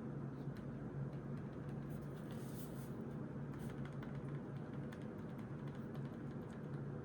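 Faint scratching and light tapping of writing by hand on notebook paper, in short irregular strokes over a steady low room hum.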